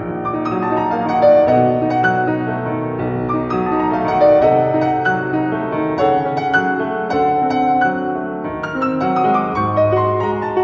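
Piano music: a steady flow of struck notes ringing over held lower tones.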